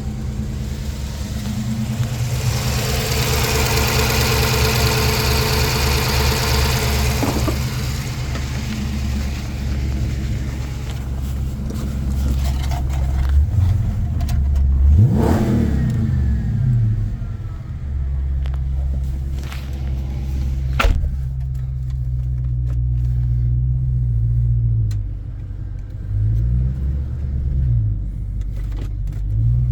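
Dodge Charger engine running at idle with a steady low rumble, blipped up and back down about halfway through and again near the end.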